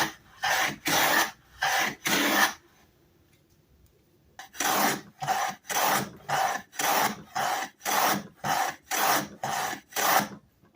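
Sargent 409C hand plane with a corrugated sole pushed over a wooden board in short, quick strokes, about two a second. The strokes stop for nearly two seconds about two and a half seconds in, then a dozen more follow. These are test passes with an iron that still needs sharpening and adjusting.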